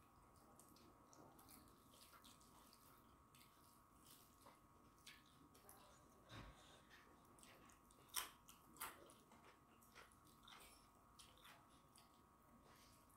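Faint close-up eating sounds: chewing and wet smacking of rice and curry eaten by hand, with scattered small clicks and two sharper clicks a little past the middle.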